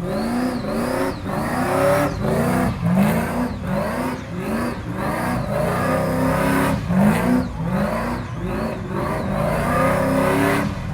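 Car engine revved hard again and again, its pitch climbing in quick repeated sweeps about once or twice a second.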